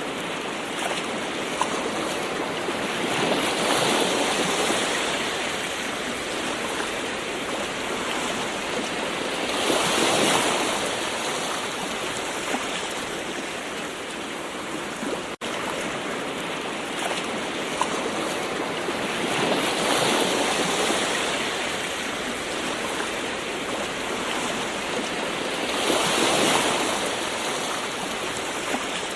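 Gentle ocean waves washing in over a steady hiss of surf, swelling and ebbing four times, with a split-second dropout about halfway through.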